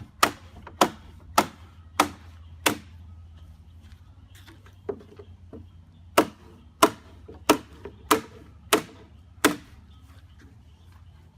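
A hammer driving nails into scrap pallet wood: two runs of about six sharp, evenly paced blows, a little over half a second apart, with a pause of about three seconds between the runs.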